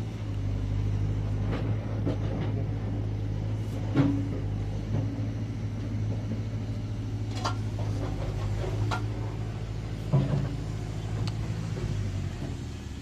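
Diesel engine of a mechanical digger running with a steady low hum, with several sharp knocks. The engine stops shortly before the end.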